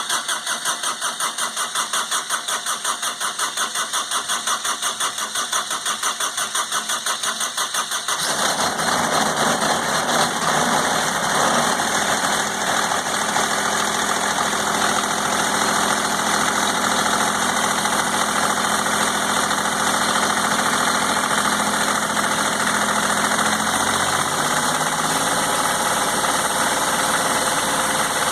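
Kubota GR2100 mower's three-cylinder diesel cranking over on the starter in a cold start without glow-plug preheat, a steady pulsing churn, then catching about eight seconds in and running with diesel clatter. Its speed drops a little near the end.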